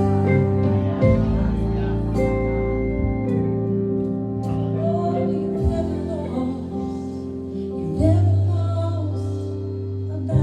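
Live worship music: sustained keyboard chords over a moving bass line, with a voice singing in places.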